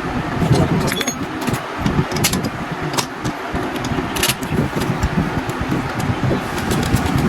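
A steady low engine rumble, with scattered light metallic clicks and clinks over it.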